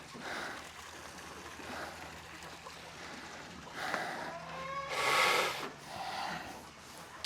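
Livestock bleating a few times, the loudest call about five seconds in, from the ranch's goats and sheep.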